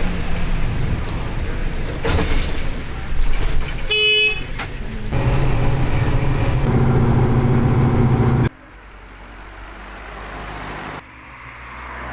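Road vehicle noise with a short horn toot about four seconds in; the sound drops suddenly twice, at edits between clips.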